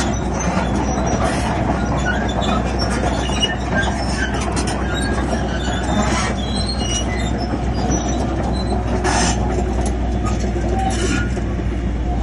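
Crawler bulldozer running steadily, with short metallic squeals and clanks from its tracks.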